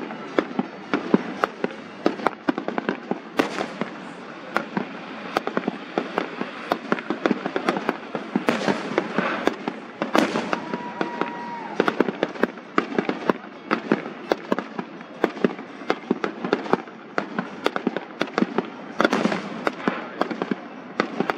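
Fireworks going off in a rapid, continuous string of sharp pops and crackles, with a few louder bangs along the way.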